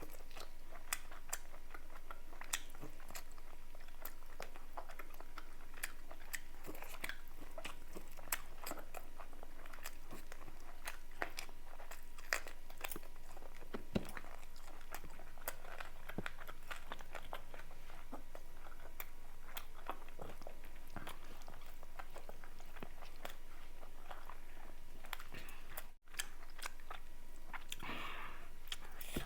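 Close-miked eating: chewing and biting with many sharp, irregular wet mouth clicks. The sound cuts out for a moment near the end.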